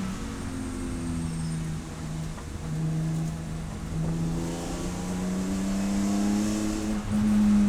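Race car engine running hard. Its pitch falls in the first second as the throttle comes off, holds low for a few seconds, then climbs steadily under acceleration and is loudest near the end.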